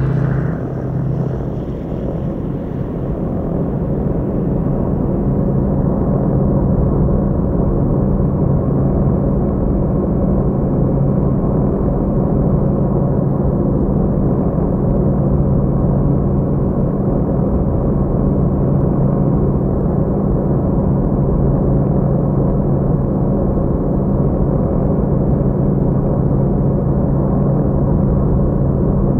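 Steady drone of airplane engines in flight, with a few low hum tones. It builds over the first few seconds, then holds even.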